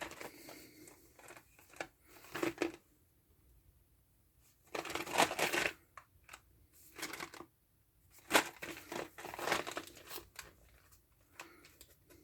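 Candy packaging being handled: irregular rustling and crinkling of a cardboard box, in bursts of up to two seconds with short pauses between.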